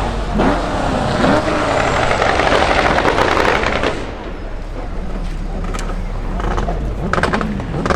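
A car engine and exhaust running loud for about four seconds, then quieter, with a few sharp pops in the second half.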